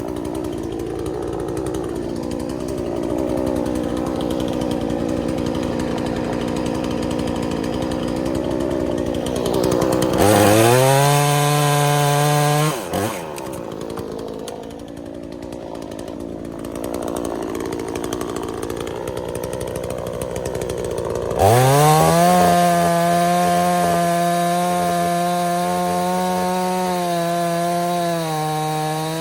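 Two-stroke chainsaw cutting logs. It runs lower and unevenly under load for the first ten seconds, then revs up sharply to a high pitch for a few seconds and drops back. About 21 seconds in it revs up again and holds high.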